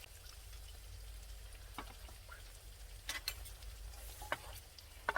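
Beef intestines and heart grilling in a pan, with a faint sizzle and a few sharp pops of fat spitting, the loudest near the end. A steady low rumble runs underneath.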